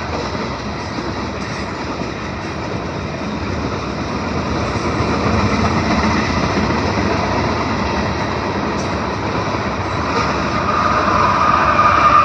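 Train rolling past on the track: a steady rumble and rattle of wheels and cars. A higher-pitched whine grows in near the end.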